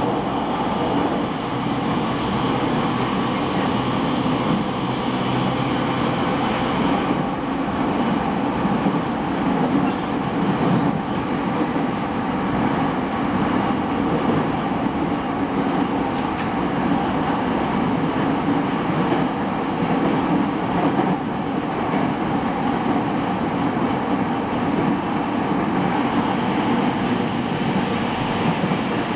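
Running noise heard inside a refurbished JR East E217-series electric train car, motor car MoHa E216-2018, travelling between stations: a steady rumble of wheels on rail with a faint steady hum. The higher hiss eases about a quarter of the way in and returns near the end.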